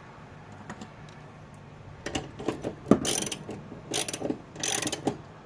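A socket ratchet clicking through a few short strokes, with metal clicks, as a puller's forcing screw is worked. It is quiet for the first two seconds; the bursts come about three, four and five seconds in.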